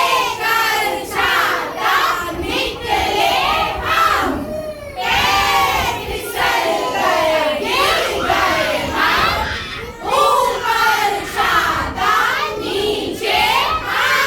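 A group of young children shouting and chattering at once, many high voices overlapping.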